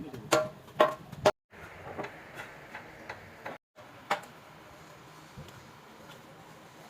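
Metal clinks of hand tools on engine parts: three sharp, ringing clinks about half a second apart, then a few fainter taps.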